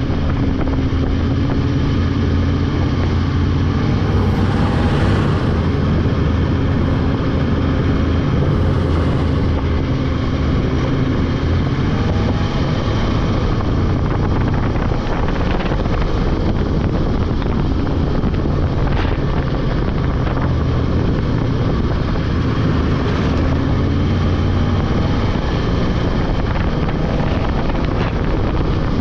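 Polaris 600 two-stroke snowmobile engine running at a steady speed while riding, with only slight changes in pitch.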